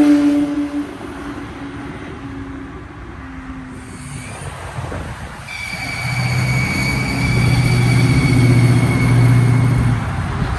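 Car engines. One engine sound at the start dies away, then a louder, low engine rumble builds from about halfway, with a thin high whine over it.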